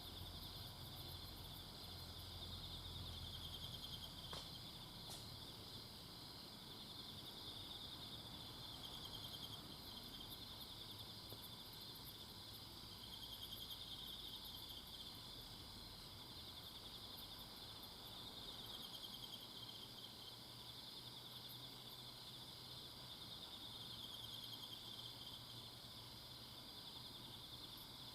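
Insects chirring in a forest, several kinds at once: a steady, pulsing high trill that swells and eases every few seconds, with fainter, higher ticking calls over it.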